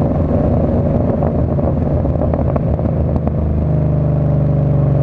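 Ford Mustang engine through its new aftermarket exhaust, running with an uneven, crackly burble as the revs settle, then changing to a steady, even drone from almost four seconds in.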